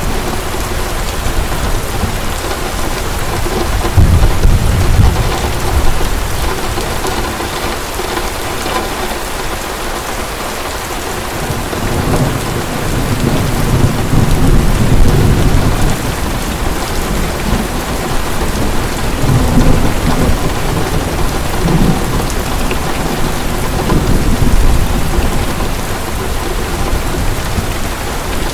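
Heavy rain falling steadily in a thunderstorm, with several long, low rolls of thunder rising and fading beneath it.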